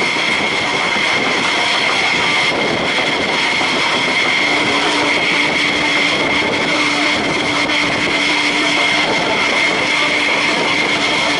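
Jet engines running steadily with a high-pitched whine over a dense rush of noise. A lower steady hum joins in about four and a half seconds in.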